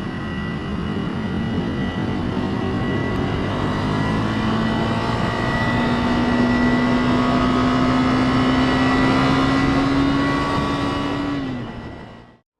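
Motorcycle engine running under way with a rush of wind and road noise, its pitch rising slowly as it speeds up; the sound fades and cuts off abruptly near the end.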